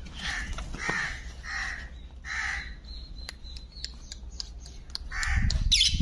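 Harsh bird calls, four in quick succession, then a louder one near the end, with a few faint clicks in between.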